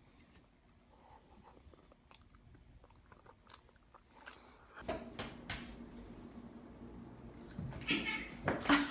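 Chewing and crunching: irregular small clicks, faint at first and louder from about five seconds in, with a few sharper knocks near the end.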